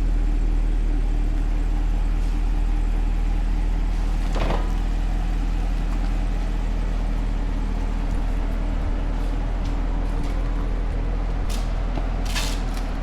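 Cadillac CT5-V Blackwing's V8 idling steadily through its Corsa Xtreme valved cat-back exhaust, a deep, even drone. There is a brief swish about four seconds in and a few light clicks near the end.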